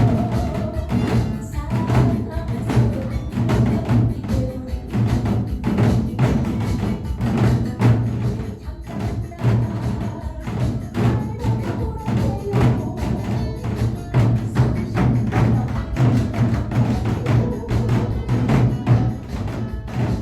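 Korean nanta drumming: barrel drums struck in fast, dense, rhythmic strokes, played over recorded backing music.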